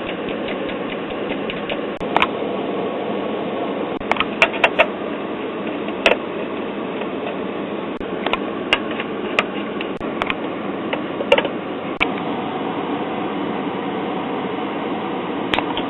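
Steady hiss of static from a 1966 Zenith AM tube clock radio's speaker, with scattered sharp crackles and clicks.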